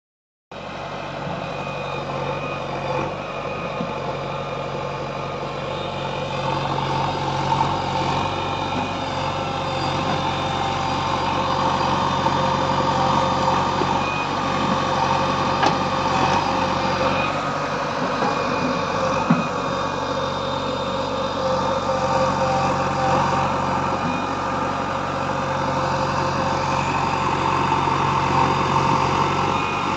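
Diesel engines of a JCB backhoe loader and a tractor running steadily while loading soil, growing a little louder partway through, with one sharp clank about two-thirds of the way in.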